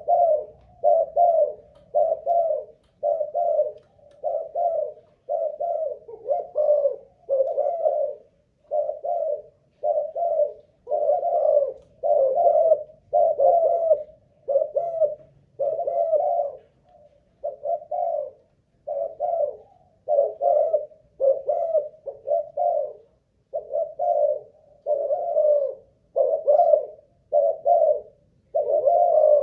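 Spotted dove cooing over and over, short coo phrases following one another about once a second without a break.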